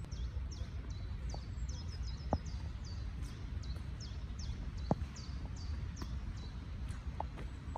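Small birds chirping over and over, in short, high, falling chirps, over a steady low outdoor rumble. A few sharp knocks come through, about a couple of seconds apart.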